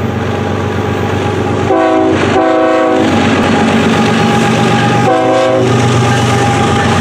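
BNSF freight train's diesel locomotives running past with a steady engine drone, sounding a multi-note horn: two blasts back to back about two seconds in and a shorter third blast about five seconds in.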